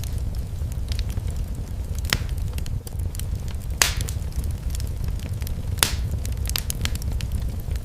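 Fireplace fire crackling: scattered sharp pops and snaps over a steady low rumble, with three louder pops about two, four and six seconds in.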